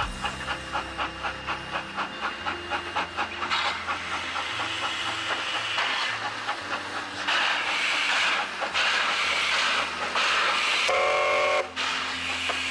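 Steam locomotive working with a steady beat of exhaust chuffs, giving way to loud hissing steam. Near the end comes one short blast on the steam whistle.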